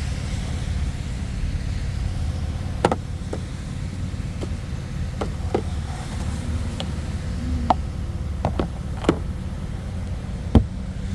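Car engine idling with a steady low rumble, with about a dozen sharp taps and knocks scattered through as snow is cleared off the car.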